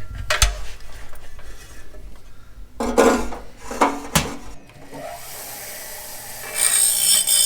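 Metal parts and tools knocking and scraping in a few sharp strokes, then a steady hiss from about five seconds in that grows louder near the end.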